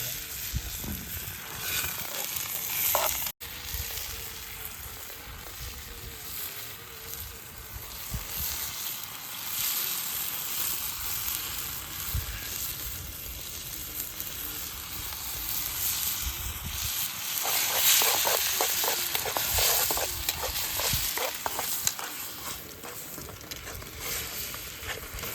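Onions and spices frying in ghee for a tadka, a steady sizzle in the pan with a spoon stirring; about two-thirds of the way through, a stretch of quick crackles and scrapes.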